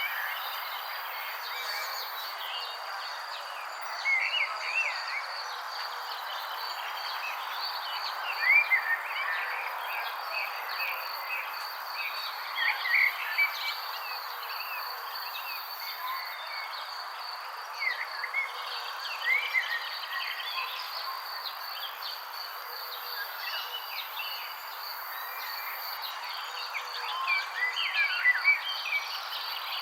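Birds chirping in short bursts every few seconds over a steady, high-pitched insect buzz and a constant background hiss.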